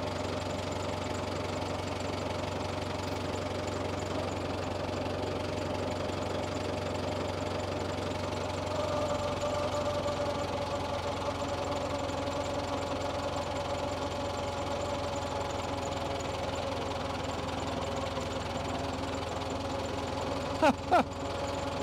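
Tractor engine running steadily, its note shifting and getting slightly louder about nine seconds in. Two brief loud sounds break in near the end.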